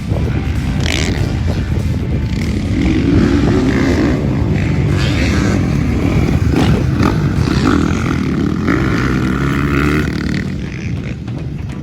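Motocross dirt bike engine running hard and revving up and down, easing off about ten seconds in.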